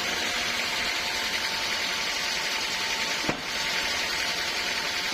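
Sawmill saw running steadily, a hissing whine with a faint steady tone, with a single brief click a little over three seconds in.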